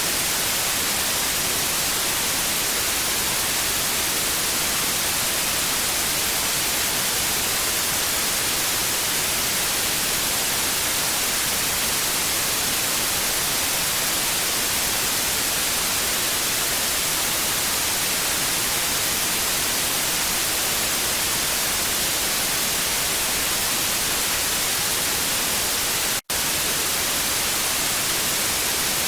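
Television static: a steady, even hiss, strongest in the upper range, which cuts out for an instant near the end.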